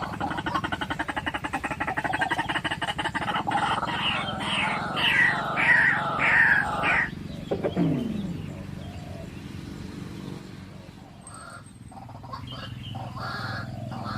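White-breasted waterhen calling: a rapid croaking chatter that breaks into a run of repeated 'kwak' notes, then a short falling note about eight seconds in, with quieter repeated calls starting again near the end.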